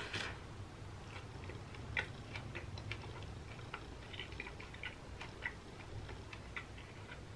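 A bite into a soft-bun hamburger, then closed-mouth chewing: faint, irregular little clicks and smacks, a few a second.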